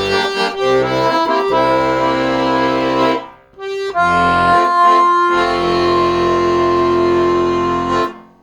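Accordion playing chords with a bass line, a short break about three seconds in, then a final chord held for several seconds that stops shortly before the end.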